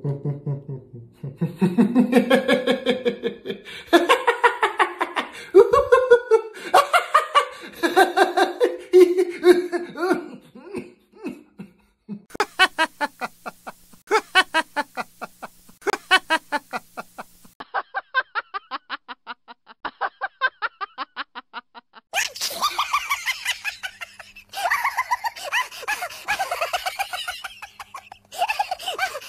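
A string of stock laughter sound effects, one clip after another: bouts of rapid pulsed laughing, some deep and others high-pitched, each clip changing sharply to the next every few seconds.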